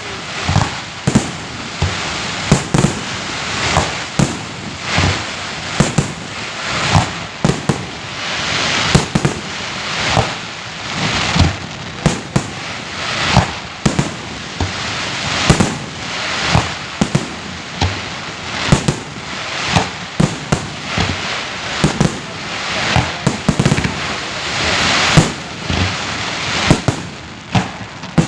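Festive aerial fireworks display: a rapid, continuous barrage of shell bursts and bangs, several a second, over a steady crackling hiss.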